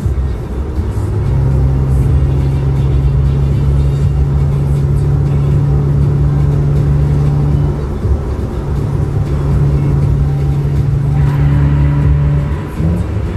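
Hyundai Tiburon GT's V6 engine droning steadily at highway cruising speed, with tyre and road noise. The note shifts a few times, and again near the end as the car enters a tunnel.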